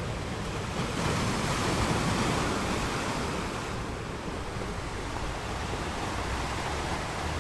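Ocean surf: a wave washing in, swelling about a second in and easing off into a steady wash of water.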